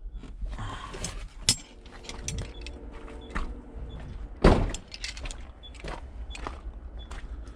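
Scrap metal being handled: a series of knocks and clanks, the loudest one about four and a half seconds in, over a low steady rumble.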